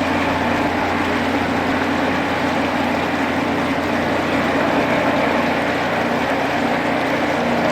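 Rail grinding machine at work, its grinding wheels on the steel railhead making a steady, unbroken harsh noise over the low hum of its engine.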